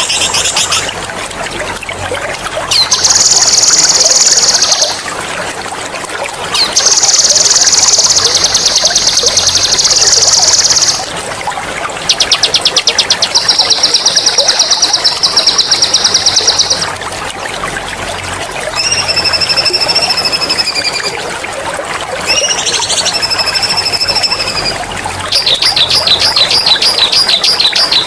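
Caged songbirds sing a series of loud, high, fast rolling trills (ngerol) and whistled phrases, each a few seconds long with short pauses between, over a steady trickle of running water.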